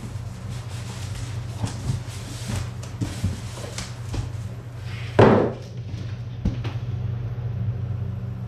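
Scattered knocks and clatter from drill press parts and bolts being handled during assembly, with one loud thud about five seconds in. A steady low hum runs underneath.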